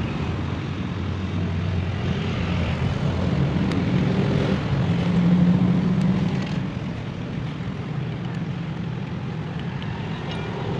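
Two-stroke chainsaw engine running, revving up from about four seconds in and dropping back to a lower speed a couple of seconds later.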